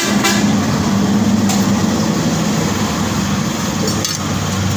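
Pressure washer running steadily with a low, even hum.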